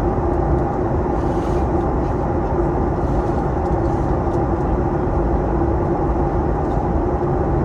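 Boeing 737 MAX 8 cabin noise: a steady rush of airflow and engine hum with a low steady tone running through it.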